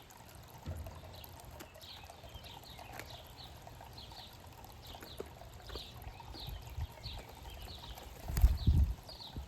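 A small songbird chirping over and over, short downward-slurred notes about two or three a second. Low muffled thumps come about a second in and, loudest, near the end.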